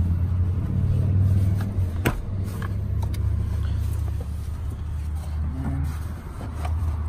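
Steady low hum of an idling vehicle engine, with a sharp click about two seconds in and a few light knocks and rustles as hands pull the lower-anchor (LATCH) strap of a car seat base tight.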